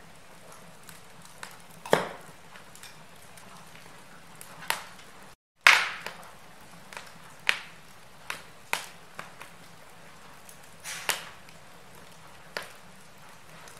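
Wood fire burning in a fireplace: sharp crackles and pops every second or so over a faint steady hiss. The loudest pop comes about halfway, right after a brief dropout to silence.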